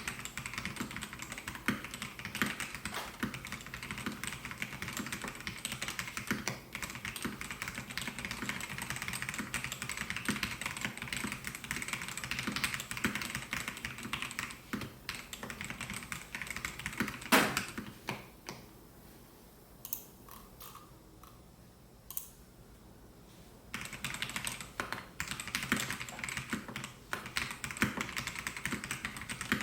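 Typing on a Melgeek Mojo68 mechanical keyboard with white Pro switches: a steady stream of rapid key clacks. One louder stroke comes a little past halfway, then the typing pauses for about five seconds with only a few single keystrokes before picking up again.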